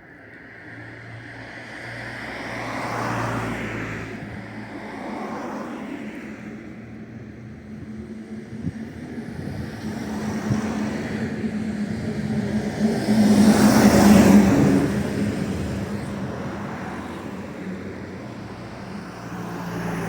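Road traffic: several cars passing by one after another, each swelling and fading, the loudest pass about two-thirds of the way in.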